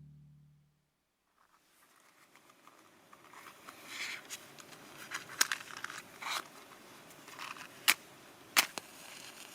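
Wood fire crackling, with a low hiss that builds up and a few sharp pops in the second half.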